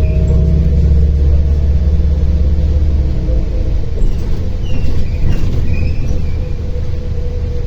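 Inside a MAZ-105 articulated city bus on the move: the engine and drivetrain drone low and steady, heavier for the first three seconds and then easing off, with a faint steady whine over the rumble.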